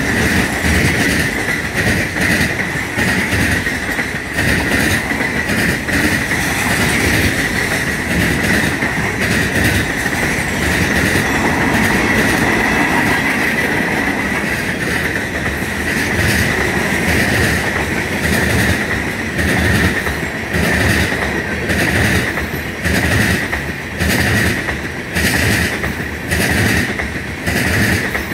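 Freight cars (gondolas, covered hoppers and a centerbeam flatcar) rolling past at speed, their steel wheels clacking in a steady rhythm over the rail joints, with a steady high whine throughout. The clacks grow sharper and more distinct in the last third.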